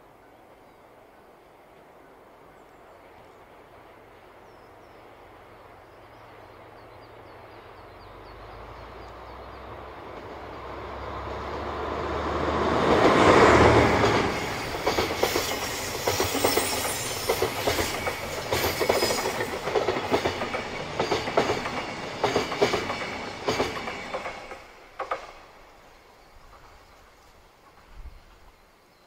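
JR Freight DF200 diesel-electric locomotive approaching with a steady low engine hum that grows louder, passing close about 13 seconds in, followed by a long string of container wagons clattering rhythmically over the rail joints for about ten seconds. The clatter fades away after about 24 seconds, with a last click or two near the end.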